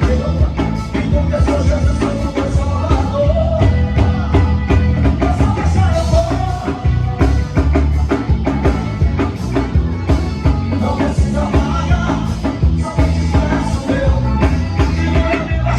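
Live band playing up-tempo Christian music with a drum kit keeping a steady beat over strong bass, with singing over it.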